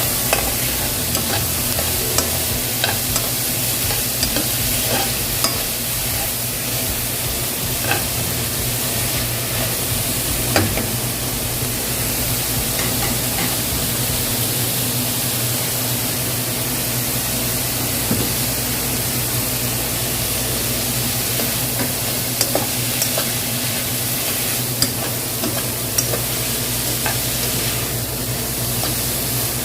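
Onion and garlic frying in oil in a pan: a steady sizzle with scattered small pops and ticks, the onion browning toward golden.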